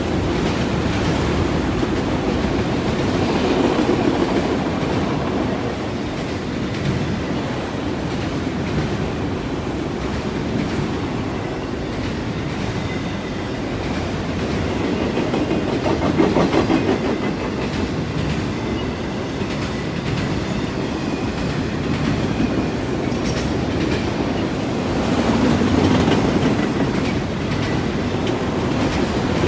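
Freight cars of a CN train rolling past over the rails and a junction switch: a steady rumble of steel wheels on track, swelling louder three times.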